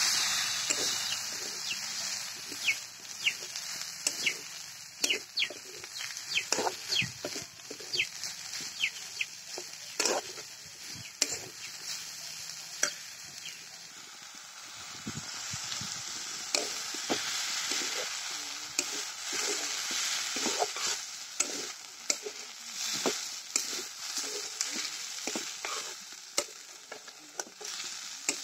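Vegetables sizzling in hot oil in a metal kadhai, stirred with a metal spatula that scrapes and clicks against the pan over and over. The sizzle is loudest at the start, just after the shredded cabbage goes in, and dies down over the next few seconds.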